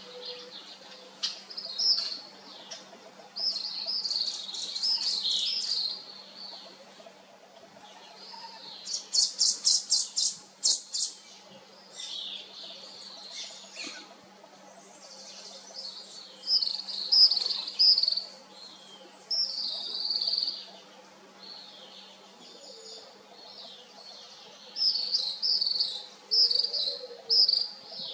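Gray kingbird calling: short, high chattering phrases that repeat every few seconds, with a quick run of evenly spaced notes partway through.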